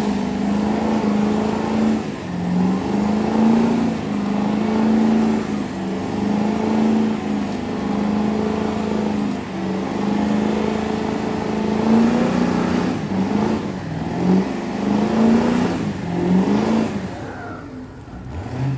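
A vehicle engine revving hard and held at high rpm, its pitch sitting level for a second or two at a time with brief dips and steps between. It fades out near the end.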